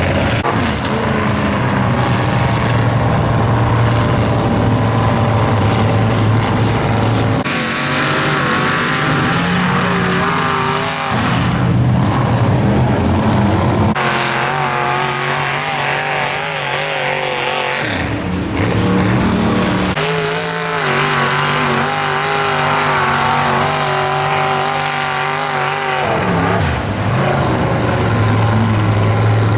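Square-body Chevy mega truck's engine run hard at full throttle, revving up and down, with abrupt changes in the sound every few seconds.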